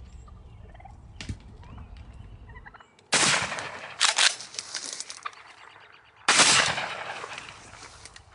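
Two shotgun shots at a turkey, about three seconds apart, each a sudden loud blast that fades over about a second. The first misses and the second drops the bird. A shorter, sharp burst of noise comes between the shots.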